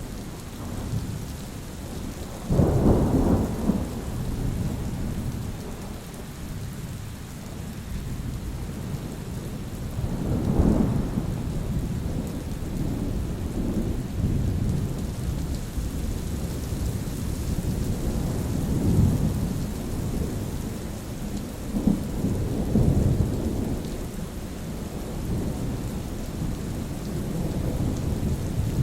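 Steady rainfall with rolling thunder. Rumbles come about 2.5 s in, the loudest with a sudden start, and again near 10 s, 19 s and 22 s in.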